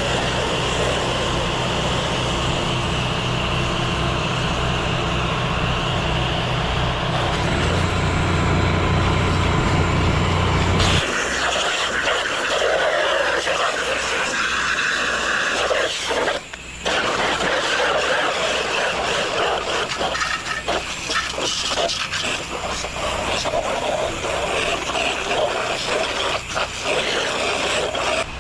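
A pressure-washing rig's engine runs with a steady hum; about eleven seconds in the hum cuts out and gives way to a hissing spray of water with scattered knocks.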